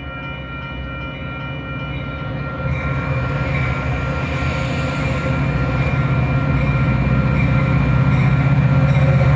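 A Metra commuter train approaching, growing steadily louder, with a deep low rumble from its diesel locomotive.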